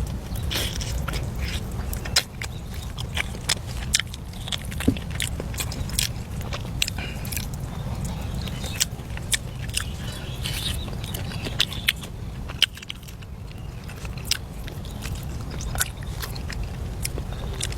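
Close-up eating sounds: chewing and crunching with irregular sharp clicks, over a steady low rumble.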